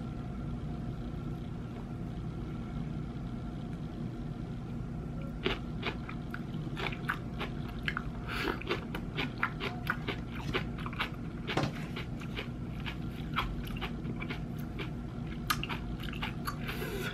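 Close-up chewing of a mouthful of napa cabbage kimchi: a run of crisp crunches and wet mouth clicks, starting about five seconds in, over a steady low hum.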